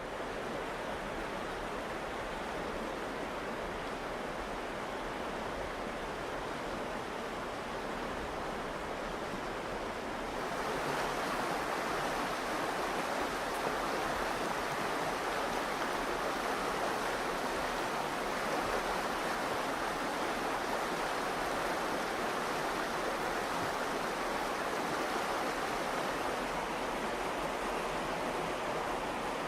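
The Virgin River flowing, a steady rush of water that turns louder about ten seconds in and stays so.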